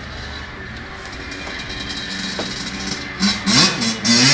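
Dirt bike engine running in the distance, then revving in repeated bursts and getting much louder about three seconds in as the bike comes close.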